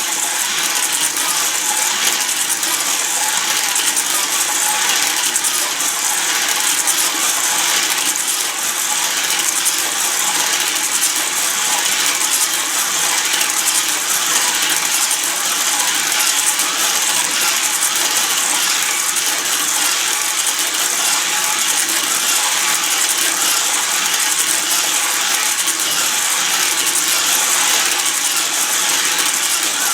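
Battery-powered Hot Wheels slot cars running on a plastic figure-eight track: small electric motors and gears whirring steadily with a fast, dense rattle.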